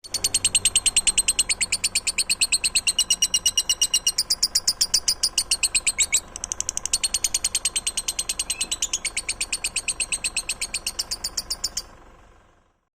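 A cage bird singing one long, rapid chattering run of evenly repeated high notes, about eight a second, with a brief break about halfway through, stopping abruptly near the end.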